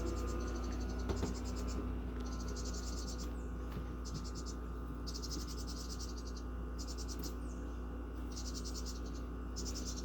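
Wren nestlings in a nest box begging for food: short, rapid, high-pitched buzzy trills repeated every second or two. Under them runs a steady low hum.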